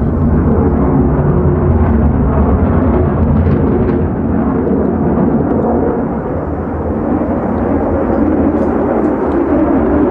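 F-35A Lightning II's single F135 turbofan engine: a loud, continuous jet rumble, its deepest bass easing off about halfway through.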